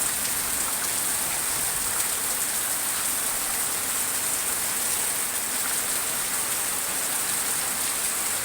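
Heavy downpour of rain: a steady, dense hiss of rain falling and hitting surfaces.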